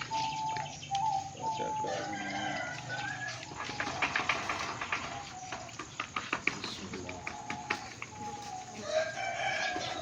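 A rooster crowing, once near the start and again near the end, with a patter of quick clicks in between.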